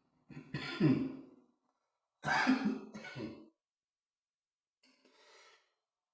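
A man coughing and clearing his throat in two loud bouts with a fainter one near the end, because a mouthful of food went down the wrong way.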